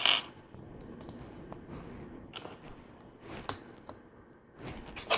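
Plastic LEGO Technic bricks and friction pins being handled and pressed together. There is a sharp click at the start, a few lighter clicks, and another sharp click near the end, over light rustling of pieces.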